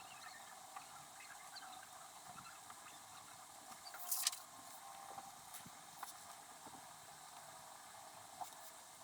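Faint letter-writing sounds played back at fast speed: high-pitched scratching and rustling of pen and paper, with a louder paper rustle about four seconds in and a few light clicks.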